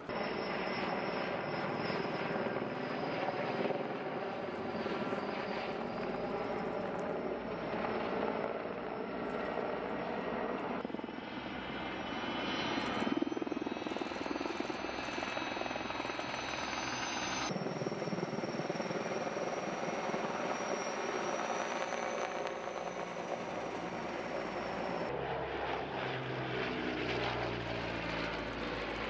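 Firefighting aircraft engines running with a steady high whine over the noise, the sound changing abruptly a few times as the shots cut.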